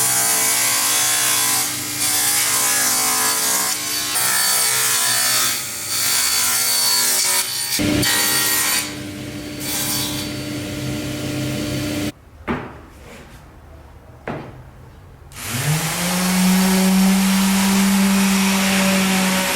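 Electric power tool working wood: a motor runs with a rasping noise, stops about twelve seconds in, then spins up again a few seconds later and runs steadily.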